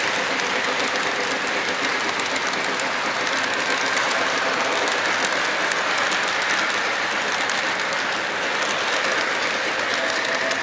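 Model train running along its track, with a steady running noise and the wheels clicking over the rail joints.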